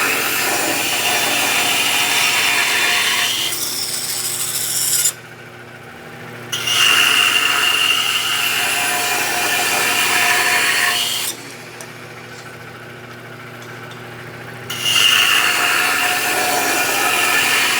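Bandsaw blade ripping thin wooden splines from stock, three cuts in a row: each cut is a loud rasping saw noise lasting about four to five seconds, the first ending about five seconds in, the second running from about six and a half to eleven seconds, the third starting near fifteen seconds. Between cuts the bandsaw keeps running on its own with a steady lower hum.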